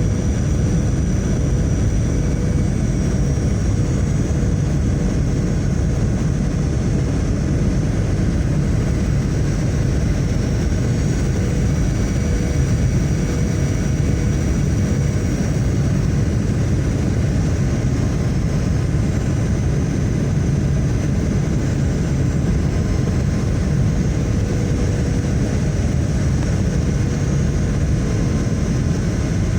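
Steady cabin noise of an airliner in flight: a constant low rumble of engines and rushing air, with a faint steady hum on top.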